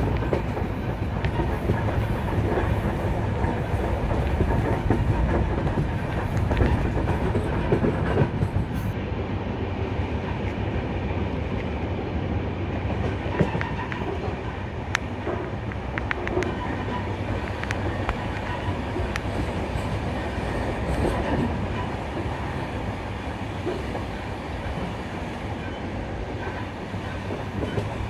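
Goa Express sleeper coach running on the track: a steady rumble with scattered sharp clicks of the wheels over the rails, mostly around the middle.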